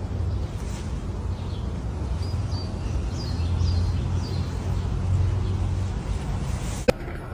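Birds chirping in short, falling calls several times over a steady low rumble, with a sharp click near the end.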